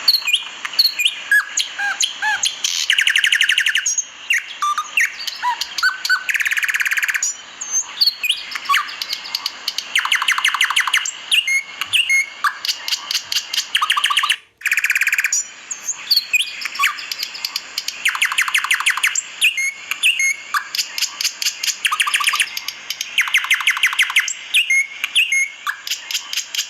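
Lovebirds chattering: sharp high chirps mixed with repeated rapid, buzzy trilling calls, with a brief gap about halfway through.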